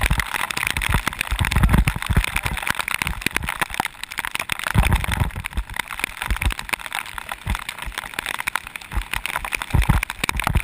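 Bicycle descending fast on a wet road in the rain: a steady hiss of tyres and water spray, with a dense crackle of raindrops and spray, and gusts of low wind rumble on the camera microphone every few seconds.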